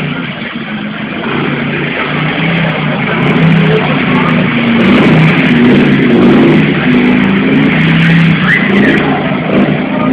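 Motorcycle engine revving hard for a tyre burnout, its pitch moving up and down, getting louder about three seconds in. Music plays underneath.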